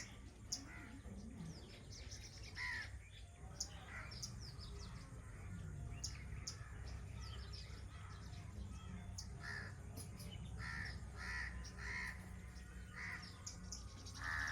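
Bird calls: a series of short calls repeated about every half-second to a second, clustering in the later part, with brief high chirps between them over a steady low background hum.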